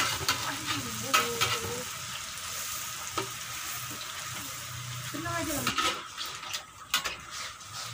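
Peyek (rice-flour crackers) frying in hot oil in a wok, a steady sizzle, with a metal spatula scraping and knocking against the wok several times as the crackers are stirred and turned.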